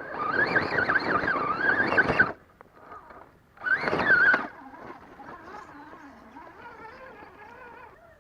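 A 1/10-scale RC crawler's electric motor and geared drivetrain whining under throttle in two loud bursts, the first about two seconds long and the second about a second, the pitch wavering with the throttle. A fainter wavering whine follows as it crawls slowly.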